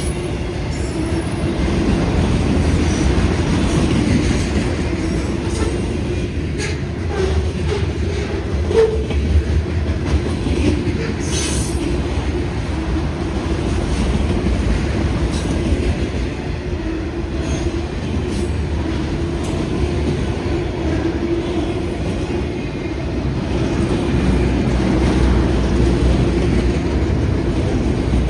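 CSX freight train of mostly autorack cars rolling past: a steady rumble of wheels on the rails, with a few sharp clicks from the rail joints.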